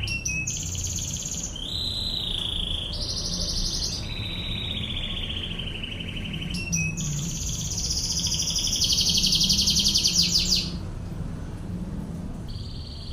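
Canary singing a continuous run of long, very fast trills and rolls (the 'tembakan ngebren' style of song), switching between high and lower-pitched phrases. The loudest and fastest trill comes about two-thirds of the way in, and a short phrase follows near the end.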